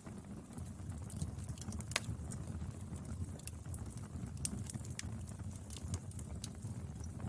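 Firewood burning: irregular sharp crackles and pops over a low, steady rumble of flames, with one louder pop about two seconds in.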